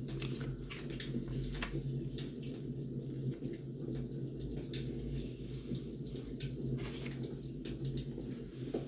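Wood fire burning, with a steady low rumble and frequent, irregular sharp crackles and pops from the burning logs.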